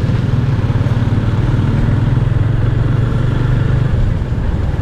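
Motorcycle engine running steadily while riding, a constant low engine note over road and wind rumble.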